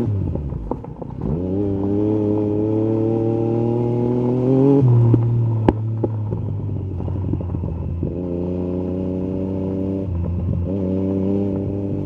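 Yamaha MT-09 SP's inline-three engine through an Akrapovic carbon exhaust, revs rising as the bike accelerates for a few seconds, then settling to a steady cruise. There is a single sharp click about halfway through.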